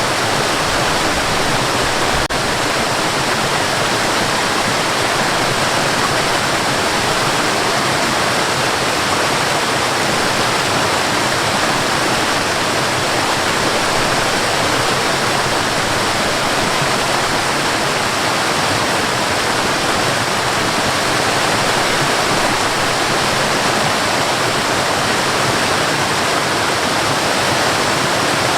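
Waterfall: water falling onto rocks, a steady, even rush.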